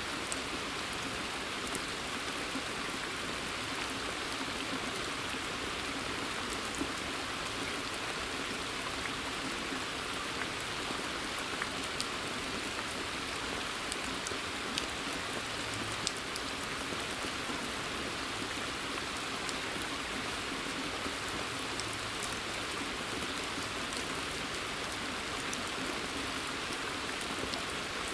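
Steady rain falling on a pond surface and forest foliage, an even hiss with many scattered individual drop ticks.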